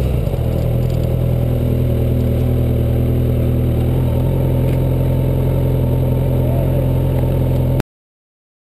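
2009 Kawasaki Ninja ZX-6R inline-four engine settling from a falling pitch into a steady low-rev run, then cutting off suddenly near the end as the audio stops.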